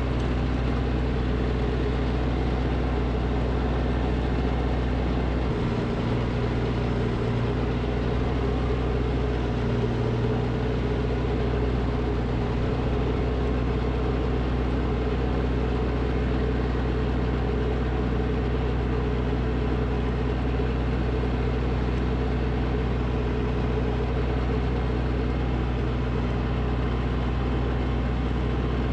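Snowblower engine running steadily, with a slight shift in its note between about six and ten seconds in.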